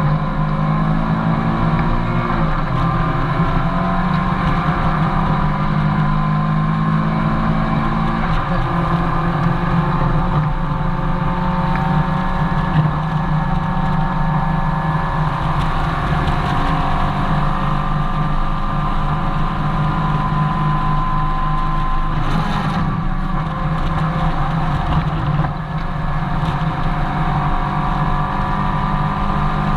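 Mazda MX-5 Miata's four-cylinder engine running hard on track, heard from inside the open cabin, its pitch rising and falling as the driver accelerates and brakes through the corners.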